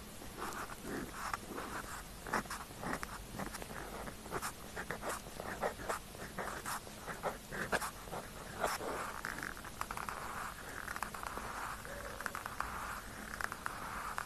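Pen tip scratching on paper in many quick, short strokes, with longer unbroken scratching from about two-thirds of the way through.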